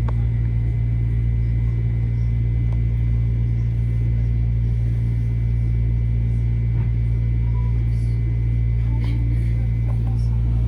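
Metro-North M7A electric train heard from inside the car: a steady low rumble and hum, with a faint steady high tone and a few light ticks about nine seconds in.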